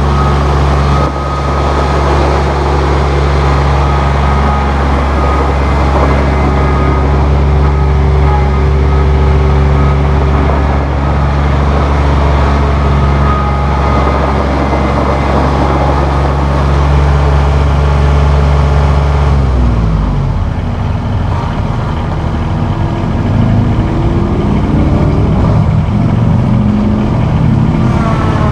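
Massey Ferguson 1635 compact tractor's diesel engine running at steady speed, then about two-thirds of the way through its pitch drops and wavers as engine speed changes.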